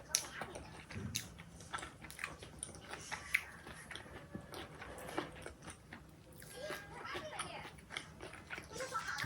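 Close-up eating sounds: crunchy food being bitten and chewed, a run of irregular crackles and clicks.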